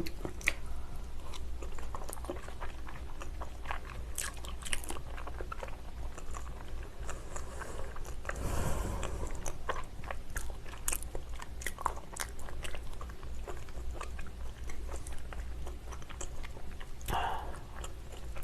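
Close-miked chewing of raw salmon sashimi: soft wet smacks and small clicks of the mouth and teeth, with a brief louder noise about halfway through.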